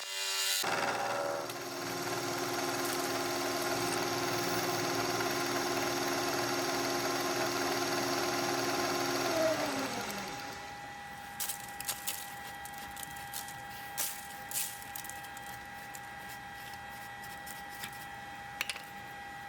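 Shop machine's electric motor running at a steady pitch, then switched off and winding down about ten seconds in. Afterward there is a faint steady hum and several light clicks.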